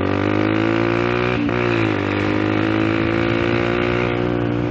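Motorcycle engine running while riding, its pitch climbing slightly, dipping briefly about a second and a half in, then holding steady.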